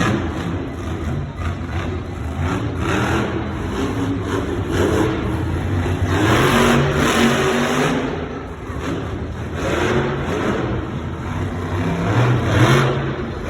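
El Toro Loco monster truck's supercharged V8 engine revving hard over and over, its pitch climbing and dropping with the throttle. The loudest surges come about halfway through and again near the end.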